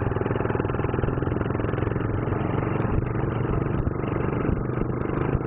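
Motorcycle engine running steadily, with rapid, even firing pulses.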